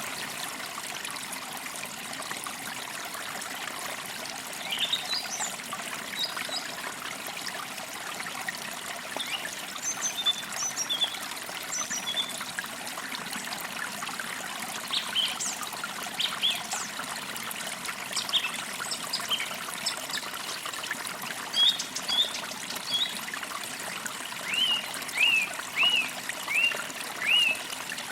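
A shallow forest creek trickling and babbling steadily, with songbirds chirping over it: scattered short calls throughout and a quick series of five or six similar chirps near the end.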